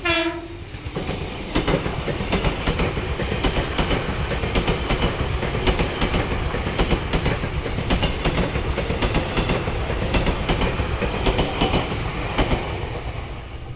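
Former Toyo Rapid 1000 series electric commuter train sounding a short horn blast, then running close past with a rhythmic clickety-clack of wheels over rail joints and a steady running noise. The sound fades near the end as the last cars go by.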